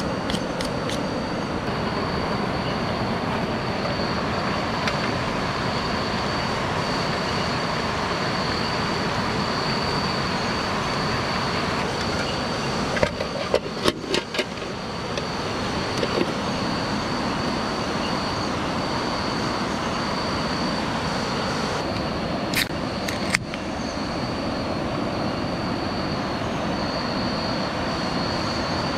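Steady, loud rushing of falling water, with a thin steady high-pitched tone running above it. A few sharp clicks come about halfway through and again a little later.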